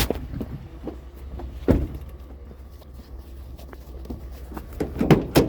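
A few sharp knocks and clunks, one near the start, one about two seconds in and a couple near the end, over a steady low rumble.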